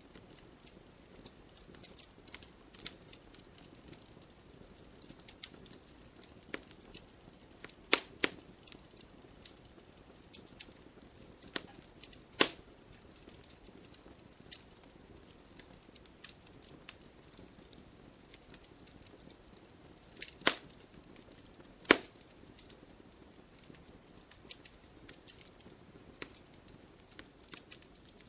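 Wood fire crackling in a fireplace: a constant scatter of small ticks and snaps over a faint hiss, broken by four sharper, louder pops spread through the stretch.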